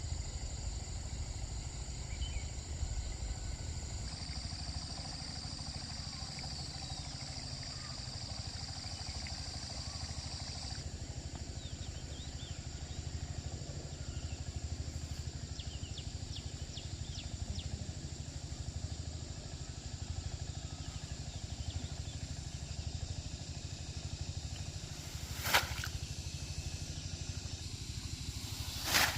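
A small engine running steadily with a low rumble, with a high insect drone and scattered bird chirps over it; two sharp clicks near the end.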